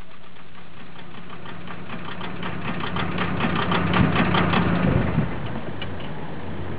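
Volkswagen Golf Mk4 TDI's 1.9 four-cylinder diesel idling roughly, with a clattering knock. The clatter and engine note swell for a couple of seconds in the middle, then settle back.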